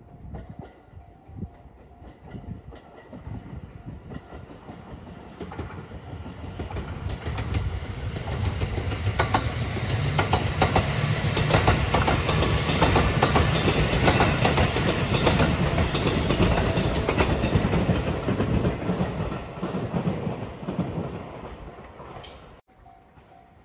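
JR West 227 series 'Urara' electric multiple unit passing close by: a rumble builds up, wheels clack over the rail joints while the train passes, and the sound then fades before cutting off abruptly near the end.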